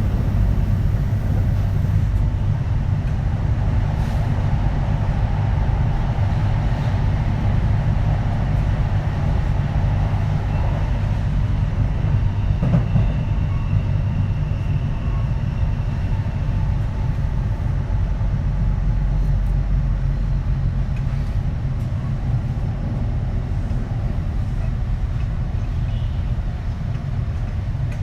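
Running noise heard aboard a Kintetsu 3220 series electric train with Hitachi IGBT inverter drive: a steady low rumble of wheels on rails, with a faint high tone for a few seconds midway.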